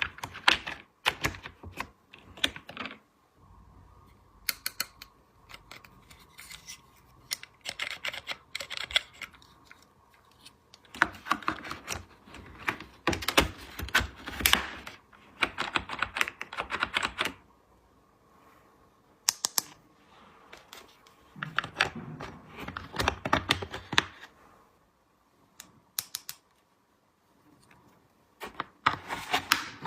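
Small plastic toy pieces clicking, tapping and clattering as they are handled, in bursts of quick taps separated by short pauses.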